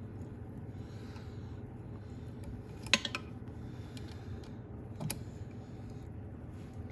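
Sharp metallic clinks from hand-tapping threads into an aluminium flywheel: a quick cluster of three about three seconds in, the loudest, and a single one about five seconds in, as the tool turning the tap is shifted. A steady low hum runs underneath.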